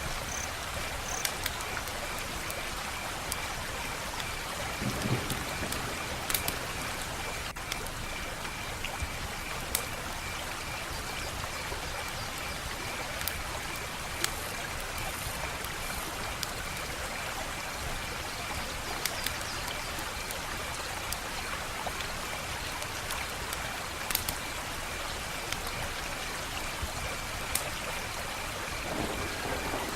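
Wood fire burning: a steady hiss with scattered sharp crackles and pops from the burning logs.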